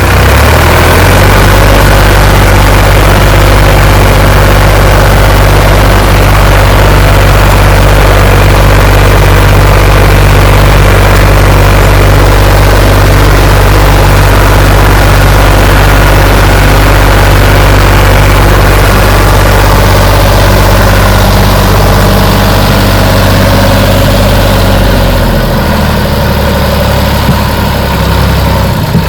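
Sonalika 47 RX tractor's diesel engine running steadily and loudly, the tractor loaded with a trolley of potato sacks. About 25 seconds in its note changes as the engine speed shifts.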